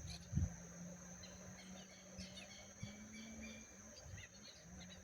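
Faint outdoor ambience: a steady high insect drone with scattered short bird chirps. A low thump about half a second in is the loudest sound.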